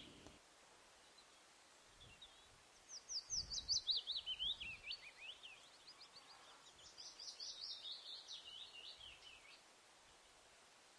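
A small songbird singing, faintly, two quick phrases of high notes that tumble downward, one about three seconds in and another about seven seconds in, over faint outdoor background noise.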